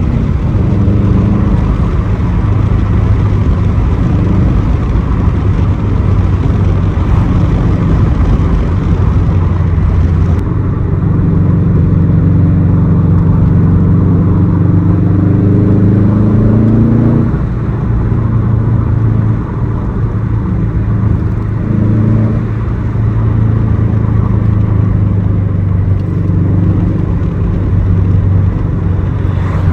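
2006 Subaru STI's turbocharged flat-four running through a Tomei exhaust while driving: the engine note climbs as it pulls through the revs, mostly about halfway through, then drops suddenly at a gear change. Between the pulls it holds a steady lower note.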